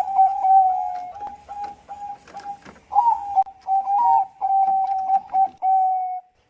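Zebra dove (Bangkok perkutut) singing its cooing song in two phrases of quick, clear coos with short upward flicks. The second phrase starts about three seconds in.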